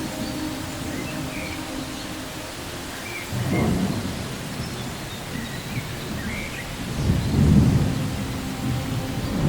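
Steady rain with rolling thunder: a low rumble swells about three and a half seconds in, and a louder, longer one builds from about seven seconds in.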